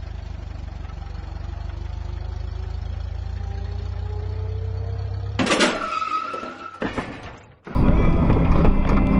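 Steady vehicle rumble with a faint engine tone slowly rising in pitch, broken about five seconds in by a sudden loud burst with a held high tone that fades away. After a moment's gap another loud vehicle scene cuts in.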